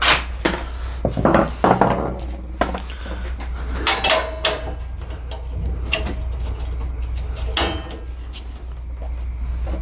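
Irregular metallic clanks, clinks and knocks of tools and steel parts being handled while fitting a brush guard, about a dozen separate hits with the busiest cluster in the first two seconds, over a steady low hum.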